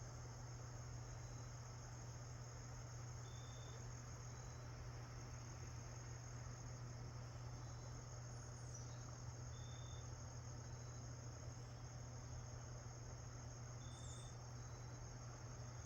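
Steady high-pitched insect chorus with a short high note recurring every few seconds, over a steady low hum.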